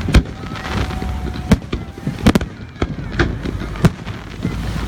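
Fireworks display: a rapid string of about seven sharp bangs from shells bursting overhead, with crackling in between.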